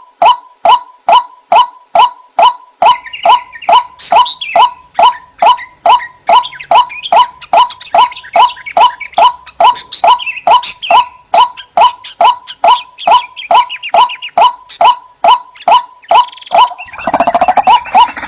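White-breasted waterhen (ruak-ruak) calling, a loud note repeated evenly about two and a half times a second, with higher chattering calls layered over it from about three seconds in. Near the end a louder, harsher burst of calling joins in.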